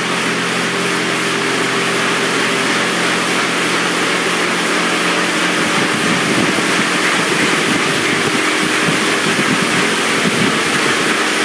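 Magic Wand Nexus touchless car wash on its high-pressure rinse: water jets spraying against the car in a steady rushing hiss, with a steady machine hum underneath that fades out about halfway through.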